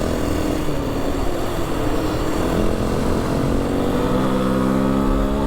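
Vehicle engine running steadily while driving over a rough desert track, over a constant low rumble of tyre and road noise. A stack of engine tones comes up stronger about three and a half seconds in.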